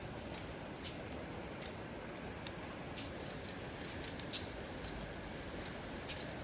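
Steady rushing of river water, with short high bird chirps every half second or so.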